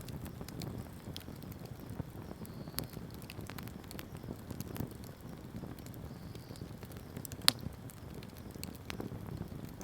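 Wood campfire burning: a steady low rush of flames with scattered crackles and small pops, one sharp loud pop about seven and a half seconds in.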